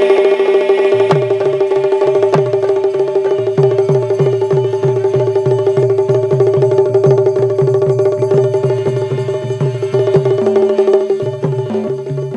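Instrumental break of a Bundeli diwari folk song: a steady held drone note over a fast drum beat and a repeating low bass figure, with no singing.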